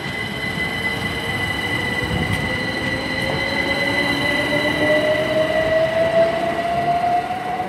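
Two coupled Class 387 electric multiple units accelerating away from a station stop. Their traction whine climbs steadily in pitch as they gather speed, over steady high-pitched tones and a running rumble.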